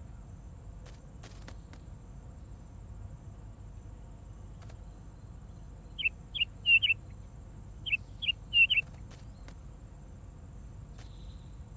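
Two short phrases of bird chirps, four quick notes each, about six and eight seconds in, over a steady low ambient rumble and a faint high whine.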